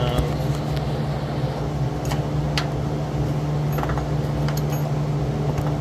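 Steady low mechanical hum throughout, with a few sharp metallic clicks and clinks of hand tools working on the exhaust manifold bolts: a couple about two seconds in and a small cluster near the end.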